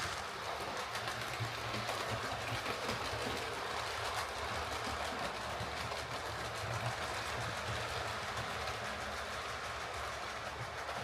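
Hornby R3639 OO gauge model steam locomotive running on model railway track: a steady whir of its DC motor and mechanism with light wheel-on-rail noise, running with its newly replaced valve gear.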